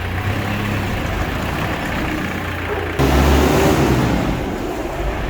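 A motor vehicle engine running with a low, steady hum, jumping abruptly louder about three seconds in.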